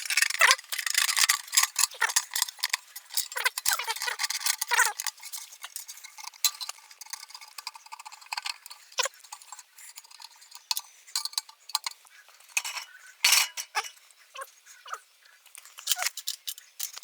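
Irregular metallic clinks, knocks and clatter of metal parts and tools being handled. The sound is busiest in the first few seconds, with a few sharper strikes later on.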